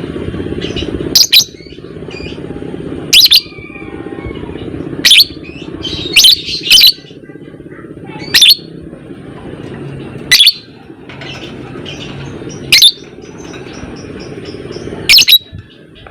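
Lovebird calling: loud, sharp, shrill calls about every one to two seconds, some in quick pairs, over a steady background hum.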